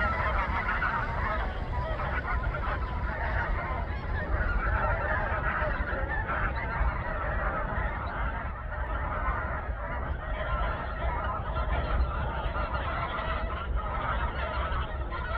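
A large flock of wild geese honking, many calls overlapping continuously, over a steady low rumble.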